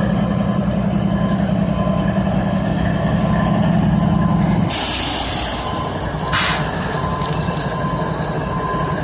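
Idling GE diesel freight locomotives with a steady low drone. About halfway through, the drone drops away as a loud burst of compressed air hisses out for about a second, followed by a shorter second hiss. This is air being released from the locomotive's air system.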